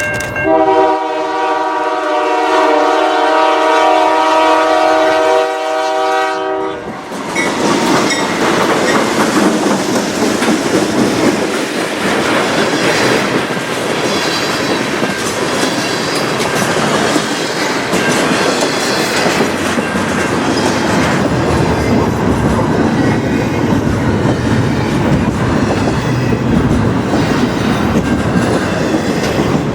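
Diesel locomotive air horn sounding one long chord-like blast of about six seconds, then the train passing close by with loud wheel and rail clatter and rushing noise.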